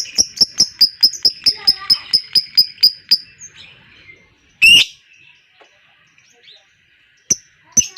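Lovebird's long chattering trill ('ngekek'), a fast even run of about five sharp high notes a second that stops about three seconds in. A single loud, harsh squawk comes near the middle, and the trill starts again just before the end.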